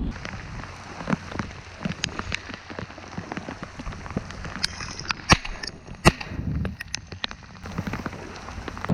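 Heavy rain falling, with drops striking close to the microphone as many sharp, irregular ticks; the two loudest come about five and six seconds in.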